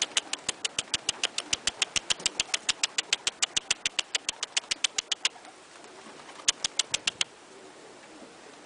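Pigeons pecking grain off a hard surface: a fast, even run of sharp taps, about six or seven a second for about five seconds, then a short burst of about five more taps.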